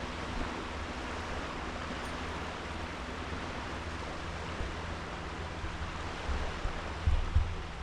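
Sea waves washing onto a beach in a steady hiss. A low wind rumble on the microphone swells near the end and is loudest about seven seconds in.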